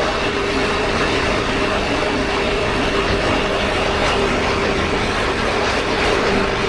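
Motorcycle riding at a steady speed: constant wind and road rush with a faint, even engine hum under it.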